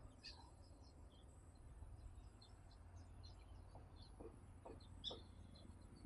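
Faint, scattered high chirps of small birds over a steady low rumble, with a few soft clicks near the end.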